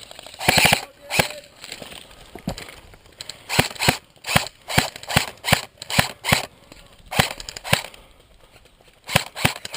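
Airsoft guns firing: sharp snapping shots, some single and some in quick bursts of a few, at irregular intervals.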